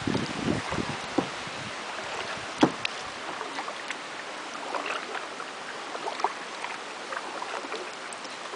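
Boat on a river: water splashing and trickling against the hull and paddles, with scattered light knocks, the sharpest about two and a half seconds in.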